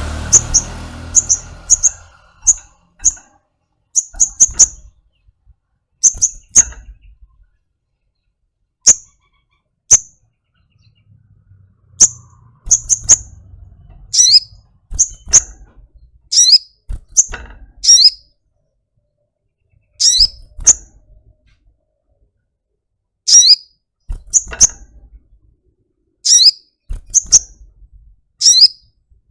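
A small bird giving sharp, high chip calls, singly or in quick pairs, about one a second with short pauses; from about halfway through, each call slides down in pitch.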